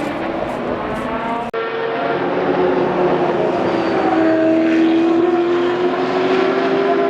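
GT race car engines running hard. Sound cuts abruptly about a second and a half in to another car, whose engine note holds nearly steady and climbs slowly as it accelerates.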